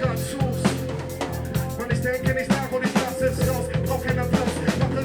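Live band playing an instrumental jam groove, with a drum kit keeping a steady beat under bass and a held keyboard-like tone.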